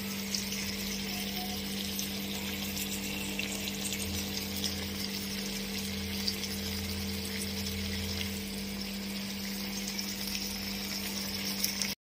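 Chicken kosa sizzling in a kadai: a steady crackling hiss of thick masala frying, over a steady low hum.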